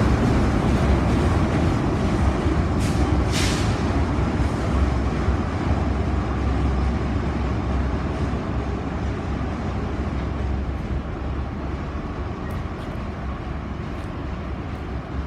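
Norfolk Southern manifest freight train rolling past on the rails, a steady rumble that slowly fades. A short hiss comes about three seconds in.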